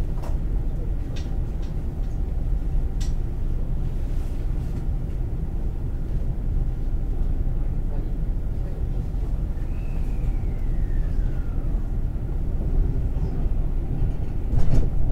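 Ride noise inside a JR West 223 series 2000 electric train, with the steady low rumble of wheels on rail. A few sharp clicks come from the wheels on the track in the first few seconds, a falling whine comes about ten seconds in, and a louder knock comes near the end.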